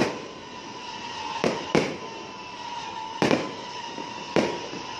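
Aerial fireworks shells bursting overhead: five sharp bangs, one right at the start, two close together about a second and a half in, one a little past three seconds and one past four seconds, each trailing off in an echo.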